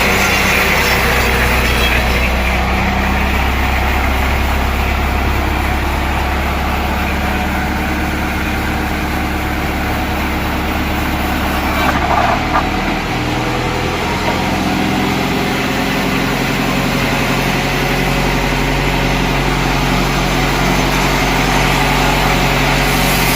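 A heavy engine running steadily. Its pitch shifts about halfway through, with a brief knock just before the change.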